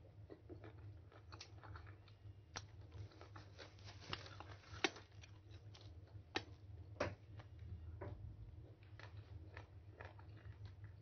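Faint chewing and biting on mango slices close to the microphone, with scattered short crunchy clicks, the sharpest about five seconds in, over a steady low hum.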